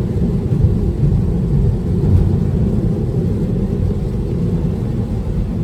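Steady low rumble of tyre and road noise heard inside a Tesla electric car's cabin at highway speed on a rain-wet road.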